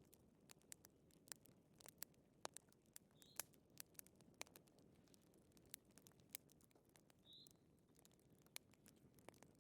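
Faint wood fire crackling: irregular sharp pops and snaps over a low steady hiss, with a soft high chirp every few seconds.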